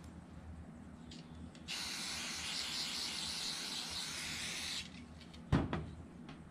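Aerosol brake cleaner spraying in one steady hiss for about three seconds, starting a couple of seconds in. A sharp knock follows near the end.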